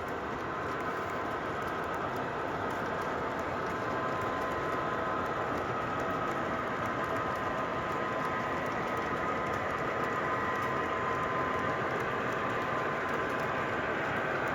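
MTH model diesel locomotives running, their Proto-Sound onboard speakers playing diesel engine sound over the running noise of the train on the track. The sound is steady, with a few held tones, and grows a little louder.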